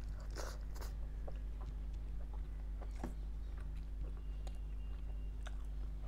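Close-up eating sounds: a bite into a mouthful of garlic naan dipped in mutton curry near the start, then chewing with scattered soft wet mouth clicks.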